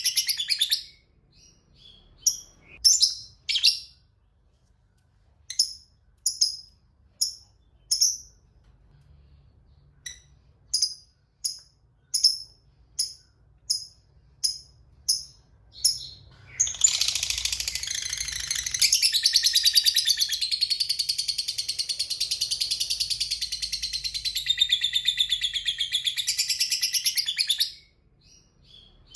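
Lovebird calling with single sharp chirps, speeding up to about two a second. It then breaks into one long, fast chattering trill (ngekek) that lasts about eleven seconds.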